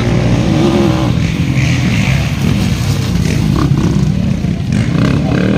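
Motocross motorcycle engines running and revving, the pitch rising and falling.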